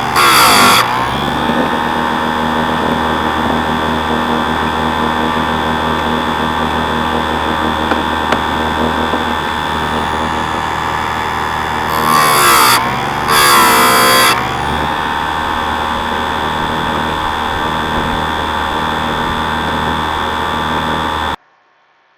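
Harbor Freight electric chainsaw sharpener's motor running with a steady whine, the grinding wheel biting into a chain tooth once at the start and twice about two-thirds through, each time louder and with the motor's pitch dipping under load. The sound cuts off suddenly near the end.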